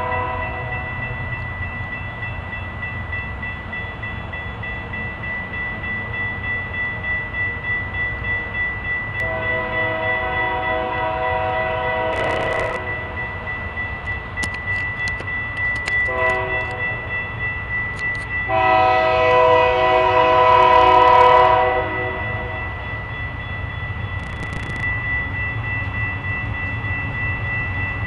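Union Pacific diesel freight locomotive rumbling past while its air horn sounds a long blast, a short one and a longer, louder one, the long-short-long pattern of a grade-crossing warning. A steady high ringing tone carries on underneath.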